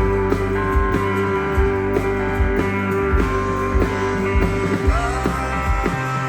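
Live band music without vocals: guitars held over bass notes and a steady drum beat.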